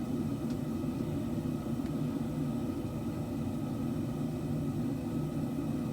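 Steady low roar of a forge running, with no break or change in pitch.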